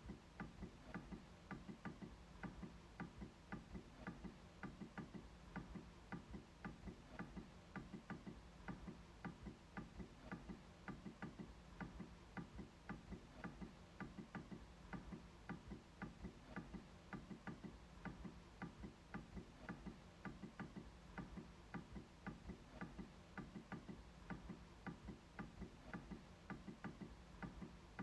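MacBook trackpad being clicked repeatedly, a faint steady run of sharp clicks, a few a second.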